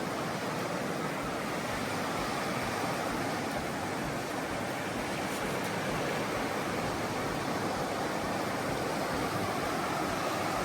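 Steady wash of surf breaking on a beach, an even noise with no let-up.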